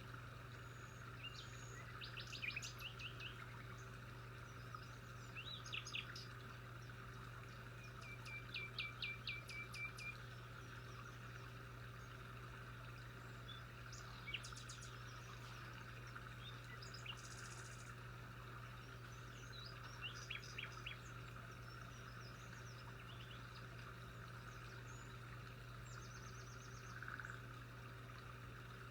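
Small songbirds chirping in short scattered bursts, including one quick run of repeated notes, over a steady low hum.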